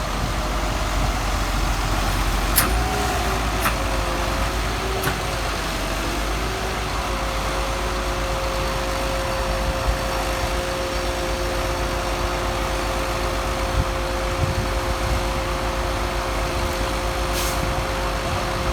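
A motor vehicle running steadily: a deep rumble under an even rush of noise, with a whine in two pitches that wavers for the first several seconds and then holds steady.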